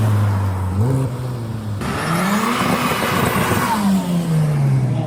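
Car engine revved hard: a quick blip about a second in, then a longer rev that climbs, holds and falls back toward idle, with a loud exhaust rush over the top.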